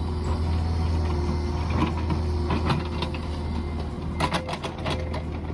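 Mini excavator's small diesel engine running steadily, with metallic clanks and knocks from the machine working, several in a row about four seconds in.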